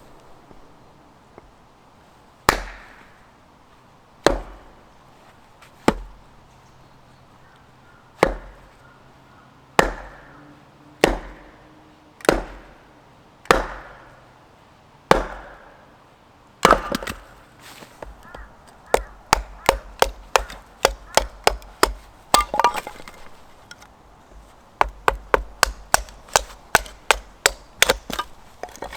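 Firewood being chopped or split by hand: about nine separate heavy blows, then in the second half quicker runs of lighter strikes, several a second.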